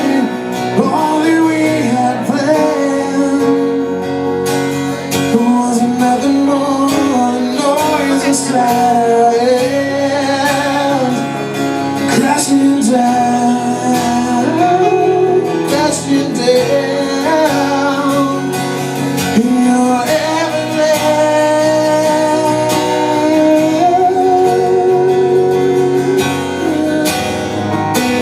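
Live rock band music: guitars playing under a singing voice that holds long, wavering notes.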